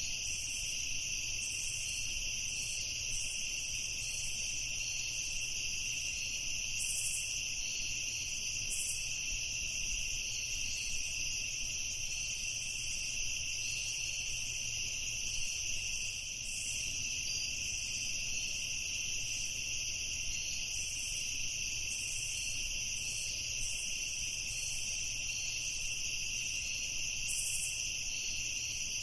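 Night chorus of crickets: a steady, unbroken high-pitched trill, with short higher chirps scattered through it.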